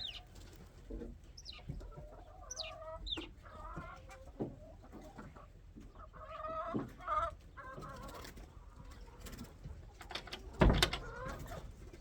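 Chickens clucking on and off, with a few high falling chirps in the first few seconds. A single sharp knock about three-quarters of the way through is the loudest sound.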